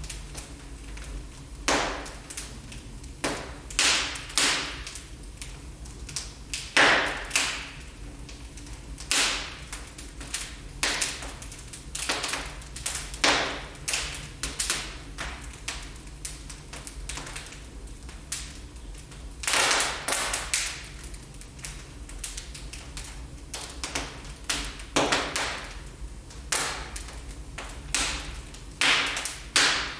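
Wood fire crackling in a fireplace: irregular sharp pops and snaps, a few with a brief hiss, over a steady low rumble.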